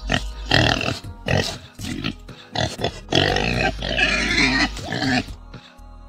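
A pig calling: several short, noisy grunting squeals, then a longer one lasting about two seconds, over background music.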